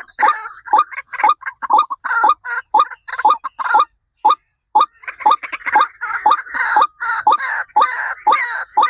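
Birds calling in a rapid run of short, rising, harsh notes, several a second and overlapping, with a brief pause about halfway through.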